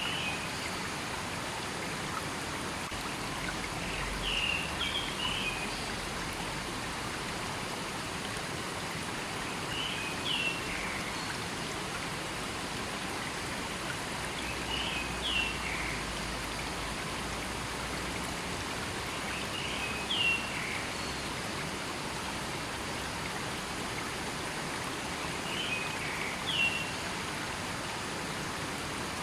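River flowing steadily through a forest, its water rushing evenly. A bird gives a short chirping call about every five to six seconds over it.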